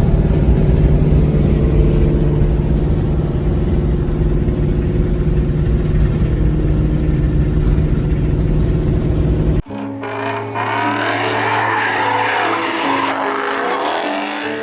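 Ford Mustang 5.0 V8 engine and exhaust running loud and steady, holding one pitch with no rev change. It cuts off suddenly about ten seconds in, replaced by music with held, stepping tones.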